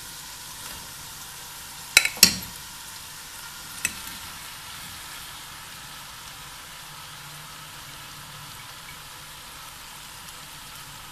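Boiled macaroni and vegetables sizzling steadily in a pot over the flame, with two sharp knocks on the pot about two seconds in and a lighter one near four seconds.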